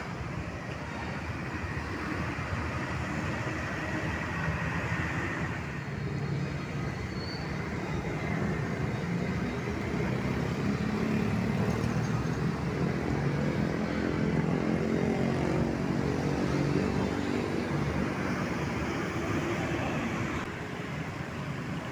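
Road traffic with a heavy vehicle's engine passing close. Its engine note grows louder from about ten seconds in and falls away near the end.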